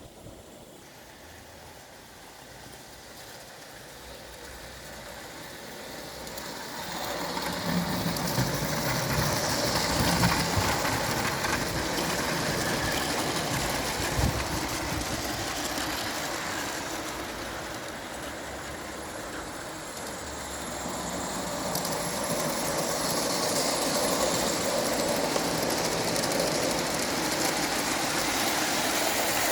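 Small light-railway train running on the line, its engine and running noise building over the first seven seconds as it approaches. The noise eases a little around twenty seconds in, then rises again.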